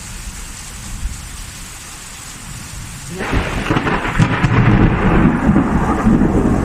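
Thunder during a rainstorm: steady rain for about three seconds, then a sudden thunderclap that rolls on as a loud, long rumble.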